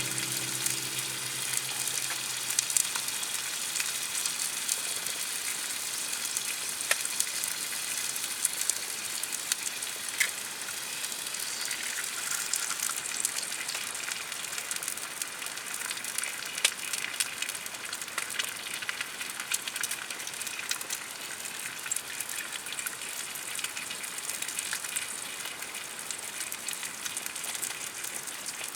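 A campfire sizzling and crackling: a steady hiss with frequent sharp pops.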